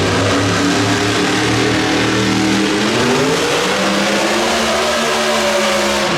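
Competition pulling vehicle's engine running flat out under load, loud, its pitch climbing between about two and a half and four seconds in, then holding high.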